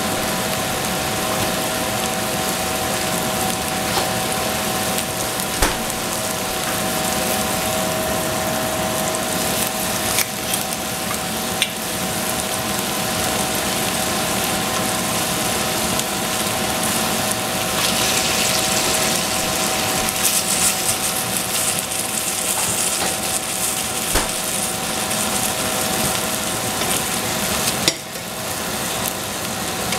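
Oyster mushrooms, egg and carrot frying in a stainless steel saucepan, a steady sizzle over a steady hum, with a few light clicks. The sizzle grows louder for a few seconds past the middle.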